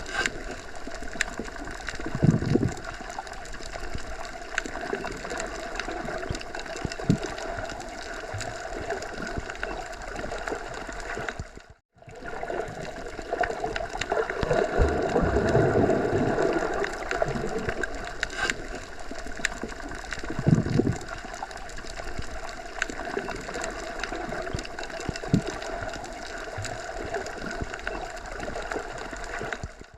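Forest ambience: a steady rush of wind through trees, swelling in low gusts a few times, with small ticks and rustles. The sound cuts out completely for a moment about twelve seconds in.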